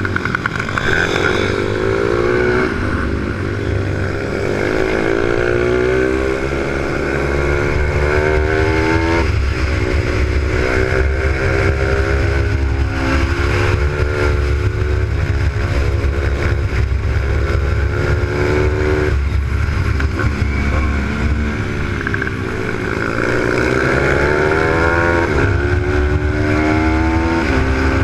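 Z155 single-cylinder four-stroke pit bike engine at race pace, climbing in pitch as it revs out, dropping sharply at each gear change or corner, and climbing again, several times over.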